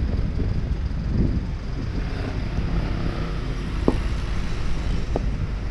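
Street traffic rumbling steadily with wind buffeting the microphone, and a couple of short clicks in the second half.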